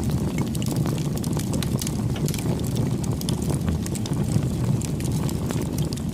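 Wood bonfire burning: a steady low rumble of the flames with many small, sharp crackles and pops from the burning wood.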